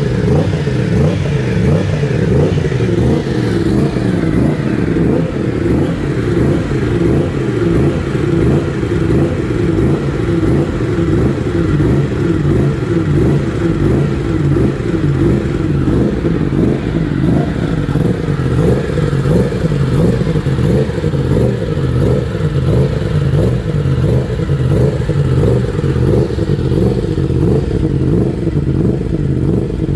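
Yamaha MT-10's crossplane inline-four engine revved over and over by its automatic pit-lane warm-up mode. Each rev rises to about 4,000 RPM and drops back, in an even repeating rhythm: the bike is warming itself up.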